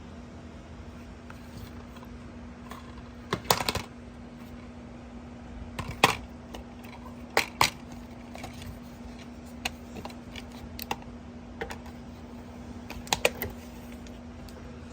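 Irregular sharp clicks and clacks in small clusters, like keys or buttons being pressed or plastic being handled, over a steady low electrical hum.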